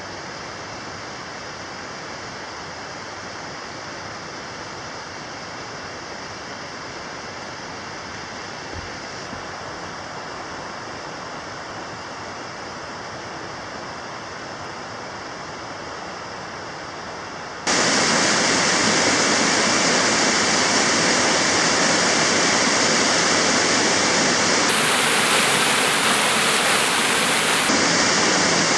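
Steady rush of water pouring over the small waterfalls and cascades of a mountain stream. It jumps abruptly louder about two-thirds of the way through and stays loud.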